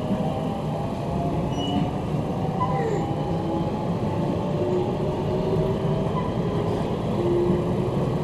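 Electric commuter train running, heard from inside the carriage: a steady rumble of wheels on rail with several whining tones slowly drifting in pitch.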